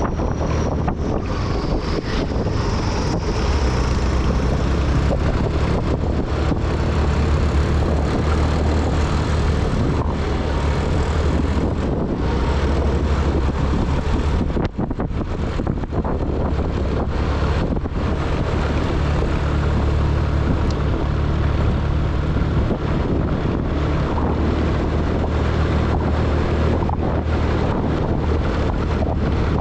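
A vehicle engine running steadily while driving, with wind noise on the microphone.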